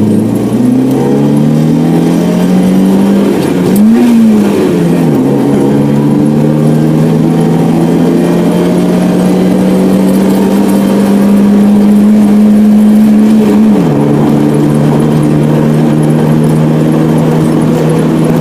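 Car engine pulling through the gears while driving: the engine note climbs, drops at a gear change about four seconds in, holds steady while slowly rising, then drops again at another change about fourteen seconds in.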